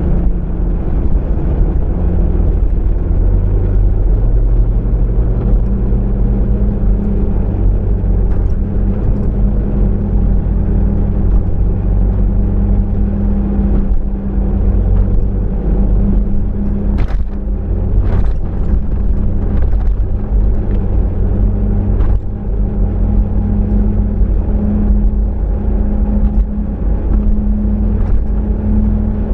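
A car's steady low driving rumble of engine and road noise, its engine note holding and shifting slightly in pitch now and then. A few short clicks or knocks come about two-thirds of the way through.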